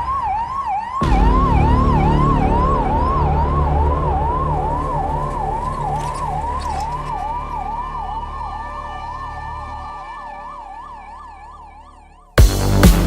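Emergency vehicle siren in a fast repeating up-and-down yelp, about two and a half sweeps a second, over a low engine rumble, fading gradually. Loud electronic dance music cuts in near the end.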